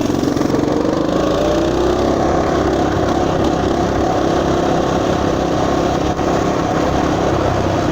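Motoland RT200 mini off-road motorbike's engine running hard under throttle, its pitch rising a little over the first couple of seconds and then holding steady as the bike runs flat out at its top speed of about 35 km/h.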